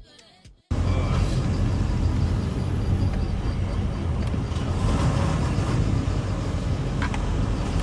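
Music cuts off under a second in, giving way to the steady low rumble of a semi truck on the move: engine and road noise.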